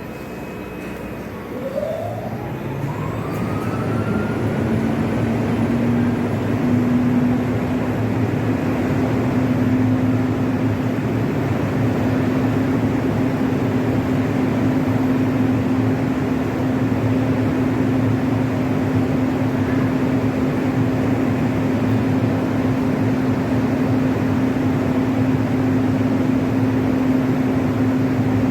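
Train starting off and running: a whine rises in pitch over the first few seconds, then settles into a steady hum over constant running noise.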